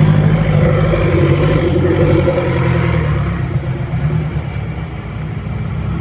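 A car engine running with a deep, steady rumble, easing off a little about halfway through.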